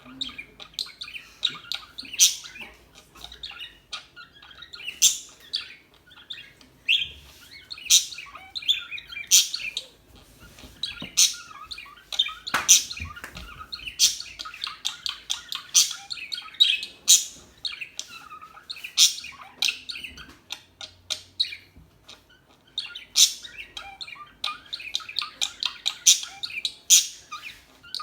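Budgerigars chirping and chattering: a dense, continuous run of short, sharp calls, with louder chirps every second or two.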